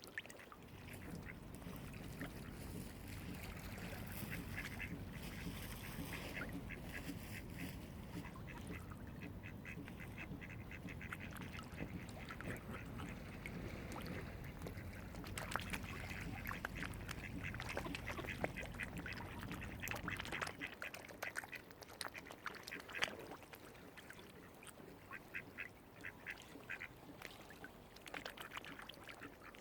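Waterfowl calling over and over in clusters of short, rapid notes, over a low rumble that drops away about two-thirds of the way through.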